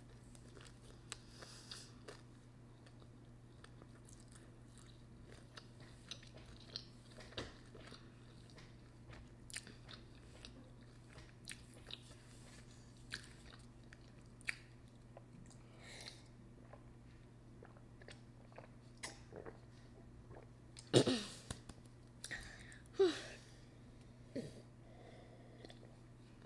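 Close-up chewing and biting of pizza: soft mouth sounds and small scattered crunches over a steady low hum. A couple of louder mouth sounds and knocks come about two-thirds of the way in.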